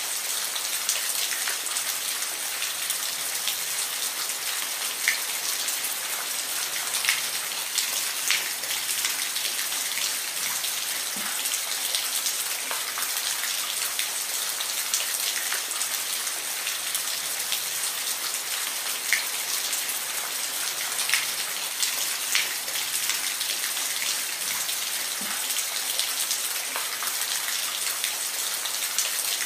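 Steady rain falling, a dense high hiss with scattered louder drops ticking on a surface.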